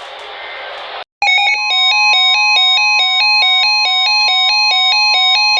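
Radio static hiss, a brief dropout about a second in, then an emergency alert's attention tones: a fast electronic two-note beeping, about five beeps a second, over a steady high tone. They mark the start of a new weather alert.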